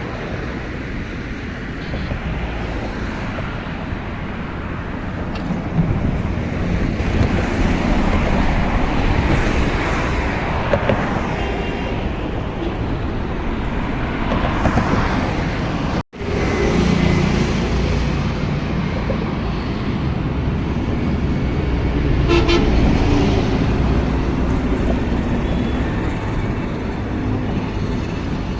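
Highway traffic: a steady rush of passing vehicles with horns honking now and then. The sound drops out for an instant about halfway through.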